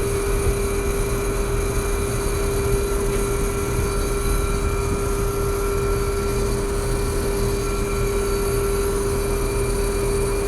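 Trane two-stage R22 air-conditioner condensing unit running steadily, its compressor and condenser fan going together, with a strong steady hum at one pitch. The compressor, feared dead, is running and cooling.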